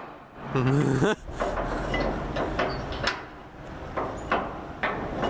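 Clanks and knocks from a freight boxcar's sliding door and latch being worked by hand to get the stuck door moving. A brief wavering groan-like tone comes about a second in, then a string of sharp knocks.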